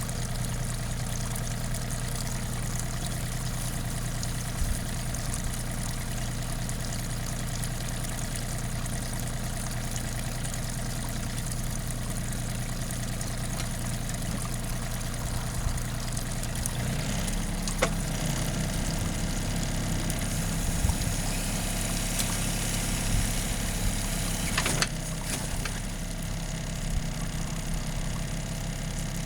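John Deere 4200 compact tractor's three-cylinder diesel running steadily while working the backhoe. A little past halfway the engine note changes as load comes on, with a few sharp clunks and a hiss for several seconds.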